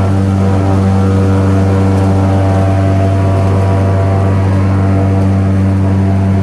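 Airboat engine and propeller running at a steady speed: a loud, even drone with no change in pitch.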